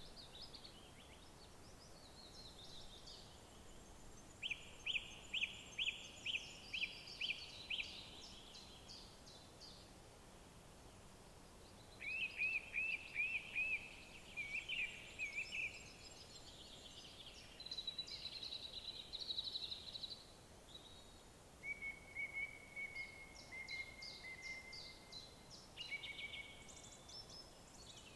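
Songbirds singing in the wild, in phrases of rapidly repeated sharp notes and short trills, over a faint steady outdoor hiss.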